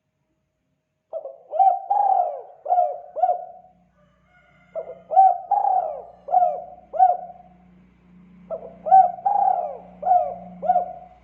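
Spotted dove (tekukur) cooing: three coo phrases about three and a half seconds apart, each a quick run of about five notes, starting after a second of silence.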